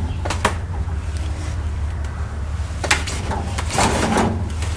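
Sharp metal clicks and knocks from a long breaker bar and socket straining against a seized mower-deck spindle nut, which does not come loose. A steady low hum runs underneath, and there is a louder rasping stretch near the end.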